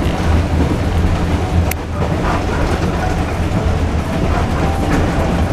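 Steady low rumble of the SE9 passenger train running, heard from inside the carriage, with one sharp click about two seconds in.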